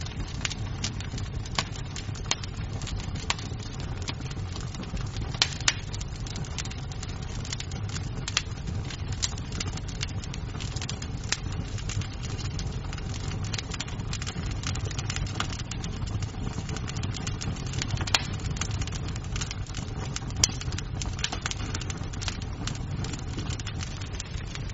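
Wood fire crackling in a fireplace: irregular sharp pops and snaps over a steady low rumble of burning logs, with a few louder pops now and then.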